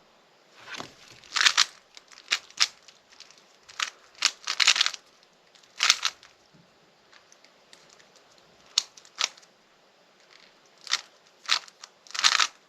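Rubik's cube being turned by hand, its plastic layers clicking and clacking in quick bursts of moves, with pauses between the bursts.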